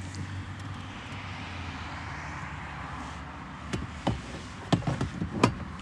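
A steady low hum with a faint haze over it, and a handful of short, sharp knocks and clicks in the last two seconds.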